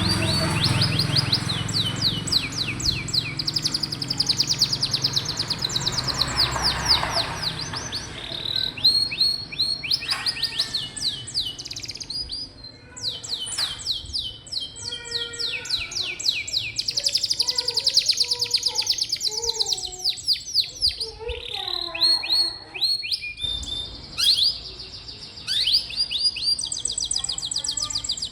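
Domestic canary singing a long, continuous song of rapid trills and rolling tours, switching from one trill to another every second or two, with some lower warbling notes in the middle. A low rumble sits under the song for the first several seconds.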